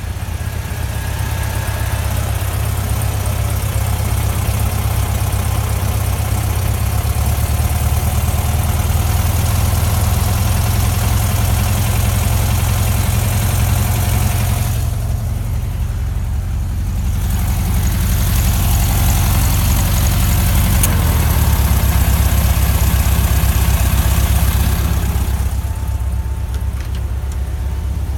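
A 1969 Volkswagen Beetle's air-cooled flat-four engine running with a steady low rumble, under a high hiss that drops out briefly about halfway through and again near the end.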